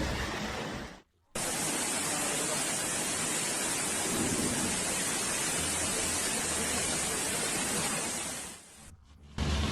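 Steady rushing noise of water in a storm, with short cut-outs about a second in and near the end.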